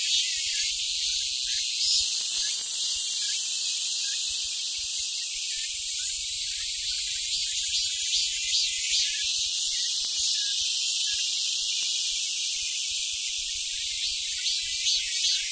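Korean robust cicadas (Hyalessa fuscata) singing in a loud, high-pitched chorus. Their call has quick rhythmic pulses at the start and again near the end, and a steadier, louder buzz in between.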